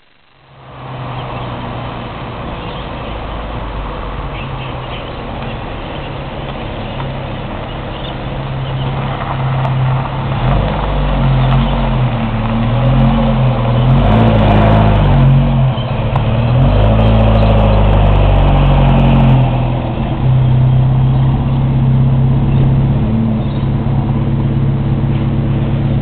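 Holden Gemini TC's four-cylinder petrol engine running as the car drives up, growing louder as it nears. The engine note rises and falls in steps and is loudest in the second half, as the car passes close and pulls onto the grass.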